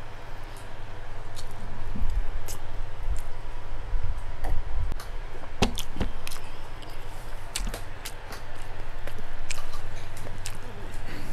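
Close-miked chewing of fatty pork and rice, with scattered short, sharp clicks and smacks.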